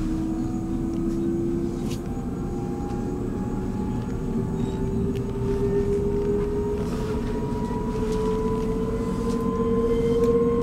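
Electric commuter train accelerating: a motor whine rises slowly and evenly in pitch over a steady low rumble of the train running on the rails.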